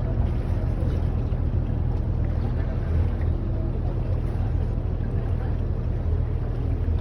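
Tour boat's engine running at a steady low hum, under an even haze of noise.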